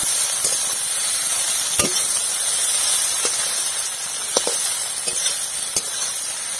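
Egg-coated soya chunks sizzling in hot oil in a metal kadai (wok), with a metal spatula scraping and knocking against the pan about once a second as they are stirred.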